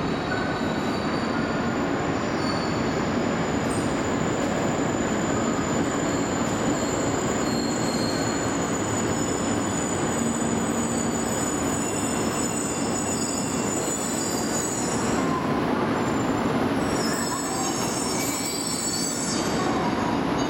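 JR East E2 series Shinkansen train rolling slowly into the platform and coming to a stop, with a steady rumble and thin, high squealing tones from the running gear. The squeals thicken near the end as it halts.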